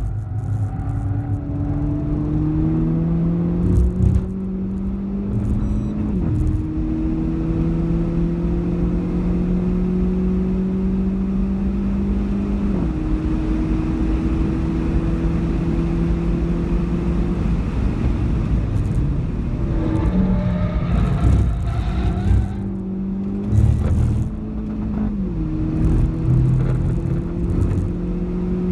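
Renault Clio 4 RS's 1.6-litre turbocharged four-cylinder engine heard from inside the cabin on a track lap. It pulls hard, with upshifts about six and thirteen seconds in, brakes and changes down with uneven pitch jumps around eighteen to twenty-one seconds, then accelerates again with another upshift near the end.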